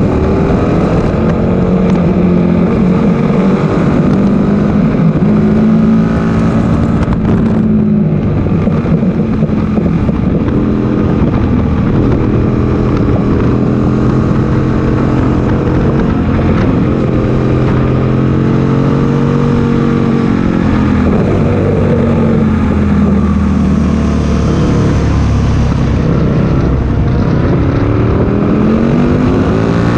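Aprilia Tuono 1000R's V-twin engine under hard acceleration, holding high revs with a brief break for a gear change. About two-thirds of the way through the revs drop away, then climb again near the end.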